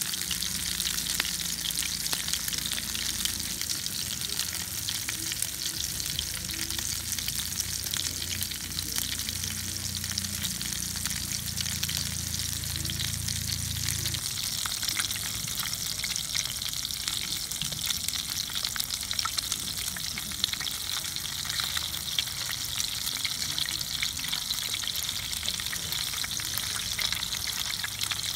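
Beef burger patties sizzling in a hot black pan over a wood fire: a steady, dense crackling sizzle with fine spitting pops throughout.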